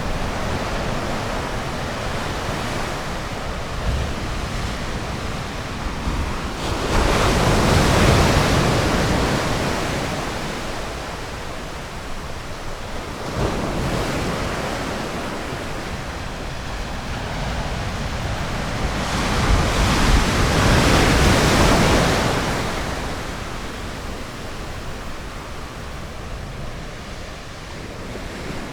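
Ocean waves breaking on a beach: a steady hiss of surf that swells twice as larger waves break, about seven seconds in and again about twenty seconds in.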